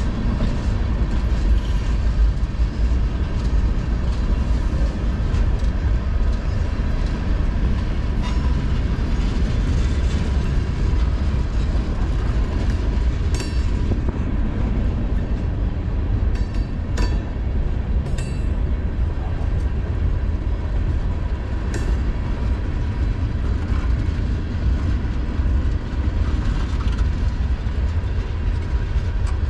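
Freight train cars rolling past with a steady heavy rumble of steel wheels on rail, and a few sharp metallic knocks about halfway through.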